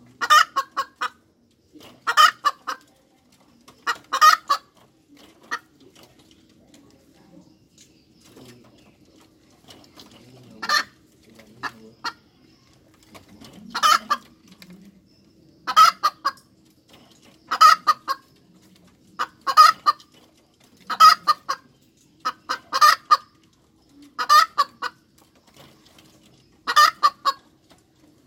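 Domestic hen cackling: a series of short, loud call clusters about every two seconds, with a quieter stretch about a quarter of the way in. A faint steady hum runs underneath.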